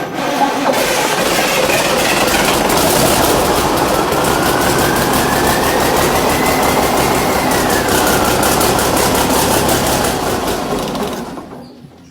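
Cummins Big Cam 315 Formula diesel engine being cranked over by its starter for about eleven seconds, with a fast, even chugging rhythm. A whine rises and then falls about halfway through, and the engine winds down near the end.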